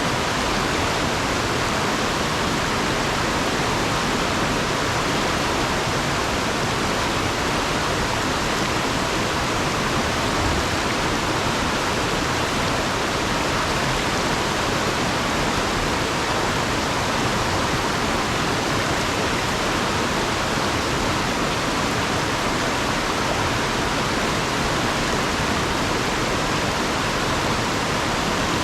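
Fast-flowing river water rushing over rocks: a steady, unbroken rush with no change in level.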